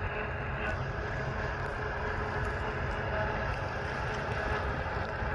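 Heavy harvest machinery running steadily: a deep, even engine drone with faint steady tones above it, from combine harvesters and tractors working in a wheat field.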